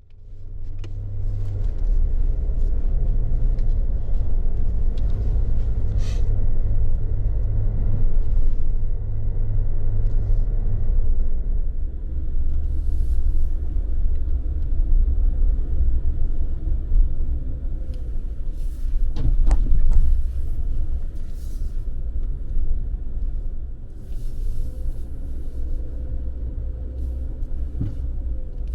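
Suzuki Jimny on the move: a steady low engine and road rumble, with a single sharp knock about two-thirds of the way through.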